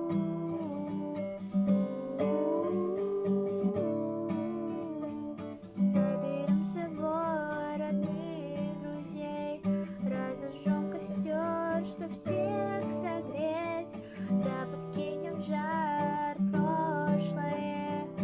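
Acoustic guitar strummed in a steady rhythm. From about six seconds in, a higher wavering melody is carried over it.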